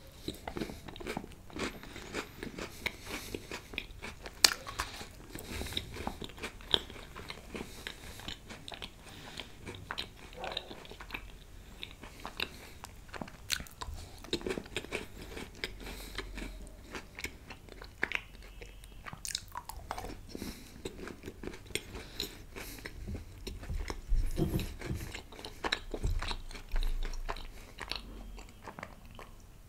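Close-miked biting, crunching and chewing of an Oreo-filled milk chocolate bar, with many small crisp crunches and wet mouth sounds. Near the end comes a sip and a swallow from a glass.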